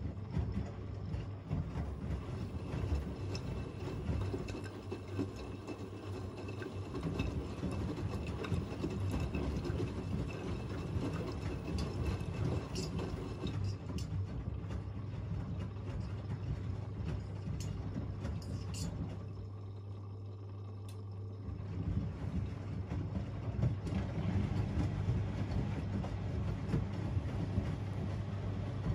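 Two washing machines, an AEG Öko-Lavamat 88840 and a Miele Novotronic W 985, washing on an easy-care cycle: drums tumbling with water sloshing over a steady motor hum. The tumbling eases for about two seconds about two-thirds of the way through, then picks up again.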